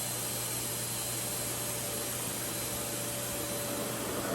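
Revair reverse-air hair dryer running, a steady rushing of air from its suction wand.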